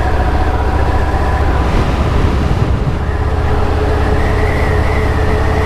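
Motorcycle engine running at road speed with heavy wind rumble. The engine note climbs a little about three and a half seconds in, then holds steady.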